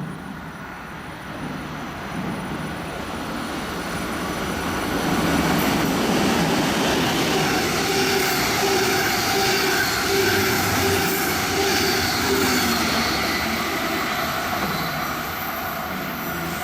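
A train approaching and passing close by. Its rolling noise builds for about five seconds, then holds loud and steady with a few steady whining tones over it, easing slightly near the end.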